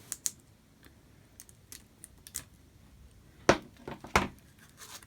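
Light clicks and taps of a phone display being handled and gently pushed out of a lamination alignment mould, with two sharper knocks about three and a half and four seconds in.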